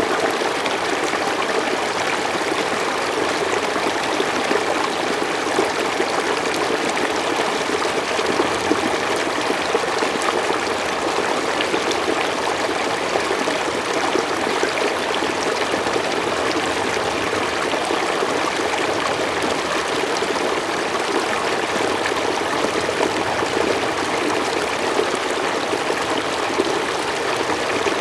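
Mountain stream flowing smoothly over rocks: a steady, even rush of water with fine splashing and trickling detail.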